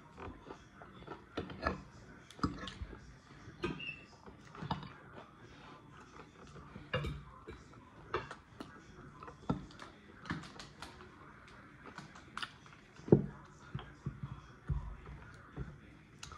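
Close-up eating sounds of someone chewing fried red snapper: irregular wet mouth clicks and smacks about once a second, the loudest a sharp click late on.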